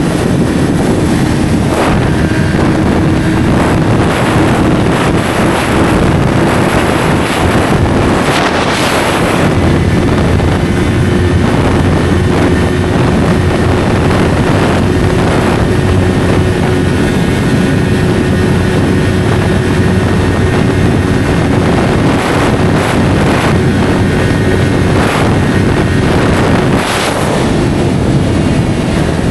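Yamaha R3's parallel-twin engine through an SC-Project slip-on exhaust, running at mostly steady revs while riding, with wind noise on the microphone. There is a brief change in the engine note about nine seconds in and again near the end.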